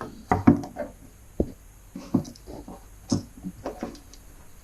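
Parts of a dismantled garage door opener being handled: a run of irregular knocks, clicks and light rattles, with no motor running.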